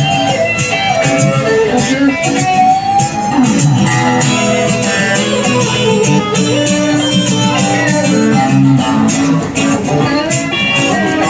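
Live rock band playing an instrumental break between verses, with a guitar carrying a melodic lead line over the rest of the band.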